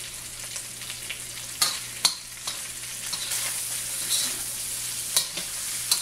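Chicken pieces and garlic sizzling in hot oil in a wok as they brown, stirred with a metal spatula that scrapes and clinks sharply against the pan several times. The sizzle grows a little louder about halfway through.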